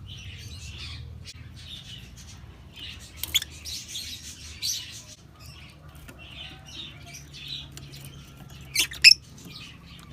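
Lovebirds chirping and twittering in quick high calls, broken by sharp clicks; the loudest is a pair of clicks about nine seconds in.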